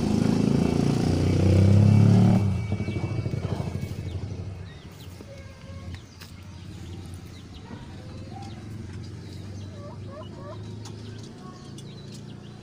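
A small engine running close by, loudest about two seconds in, then dropping away within a few seconds to a faint low hum. Faint chirping calls come through in the quieter part.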